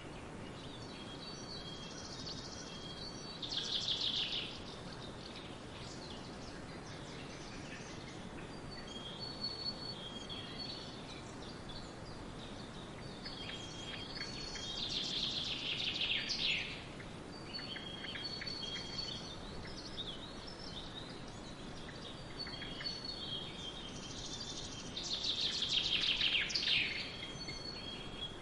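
Songbirds singing over a steady background hiss: short high whistled notes throughout, and three louder, falling trilled song phrases spaced about ten seconds apart.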